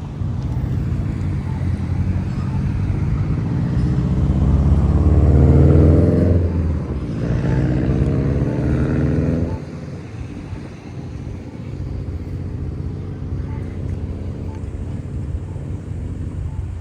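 A motor vehicle driving past close by: its engine grows louder to a peak about five to six seconds in, its pitch falls as it goes by, and the sound drops away abruptly near ten seconds in, leaving a steady hum of road traffic.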